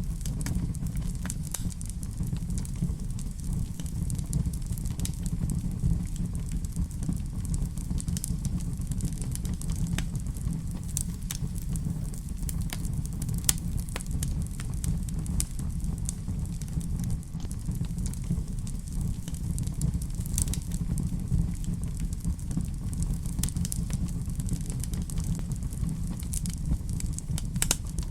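Fireplace fire crackling: many scattered sharp pops and snaps over a steady low rumble.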